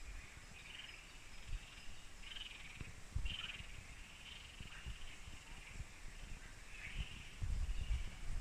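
Forest ambience: short, high chirping calls from a wild animal repeat about once a second, over scattered low thumps and rumbles.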